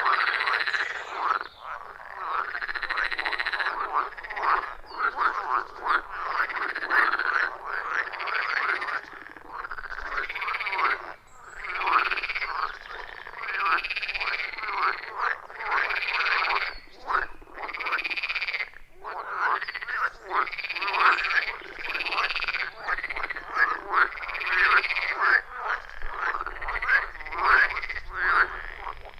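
Chorus of many frogs calling over one another at a pond: a dense run of short croaks, with an arched call that rises and falls repeating about every two seconds.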